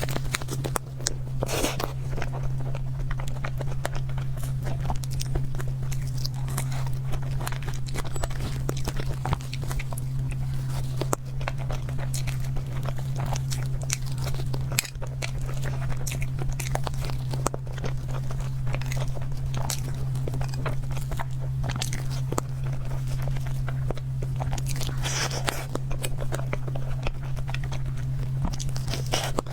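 Close-miked eating of cake: bites and chewing with many small wet clicks and smacks, over a steady low hum.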